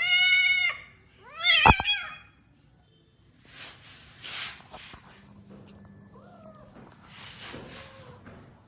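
A cat meowing loudly twice in the first two seconds, the second call wavering in pitch, then quieter, breathy noise and a few faint short mews.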